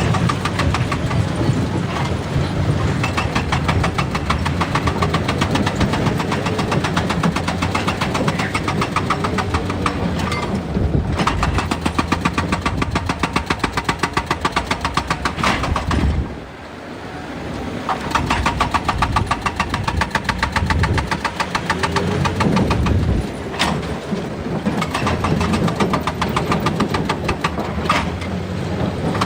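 Excavator's diesel engine running under load with a rapid, even pulsing. It drops off briefly about sixteen seconds in, then builds back up.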